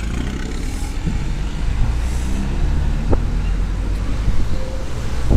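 Moving bus running on the road: a steady low engine and road rumble.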